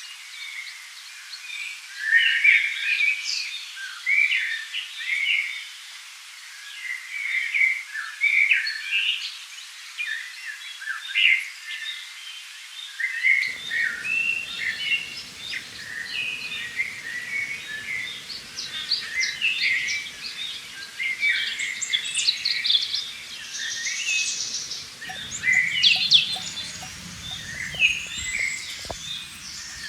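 A chorus of songbirds singing and chirping, many short quick calls from several birds overlapping, with no running water beneath them.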